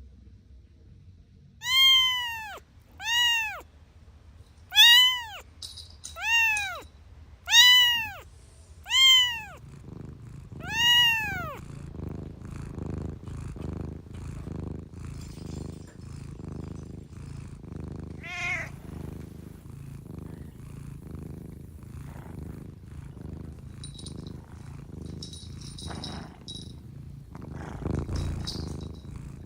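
A cat meowing seven times, about one and a half seconds apart, each meow rising and then falling in pitch. After about ten seconds a steady rhythmic purr takes over, with one short call midway.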